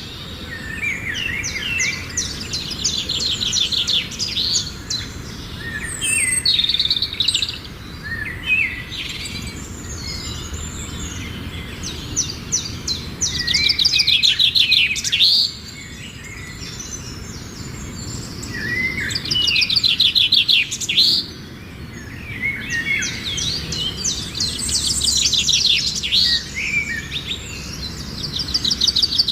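Lovebirds chirping and chattering in repeated bursts of rapid high chirps, with short pauses between the bursts.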